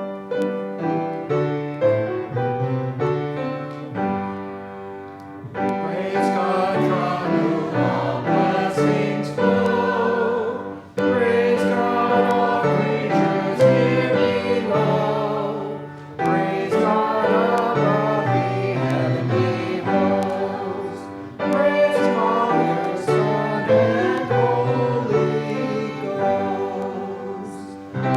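Choir singing a hymn with instrumental accompaniment, in sustained phrases with short breaks between them.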